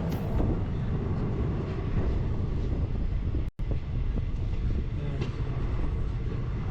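Express passenger train running at speed, heard from aboard a coach: a steady, heavy rumble of wheels on track, mixed with strong wind buffeting the microphone. The sound cuts out for an instant about halfway through.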